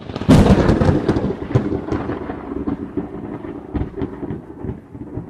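Thunderclap: a sharp crack about a third of a second in, then a crackling rumble that slowly fades.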